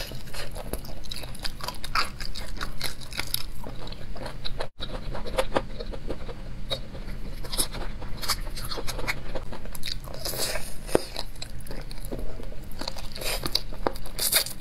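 Close-miked biting and chewing of braised chicken feet: irregular crunching with wet smacks and clicks, broken by a momentary dropout about five seconds in.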